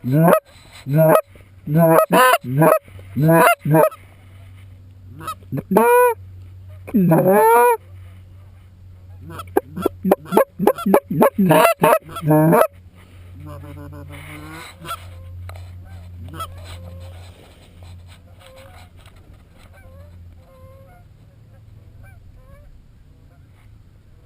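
Goose call blown by a hunter: fast runs of short clucks and honks, two longer drawn-out honks in the middle, then a second quick cluck sequence that stops about halfway through, leaving only faint scattered honks.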